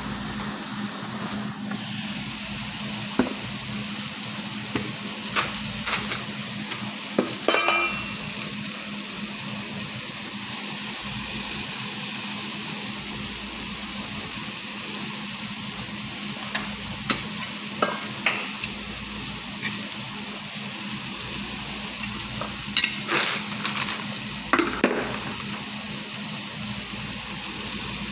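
Minced chicken, onion and carrot sizzling in a nonstick frying pan, stirred with a wooden spatula that knocks and scrapes against the pan now and then. A steady low hum runs underneath.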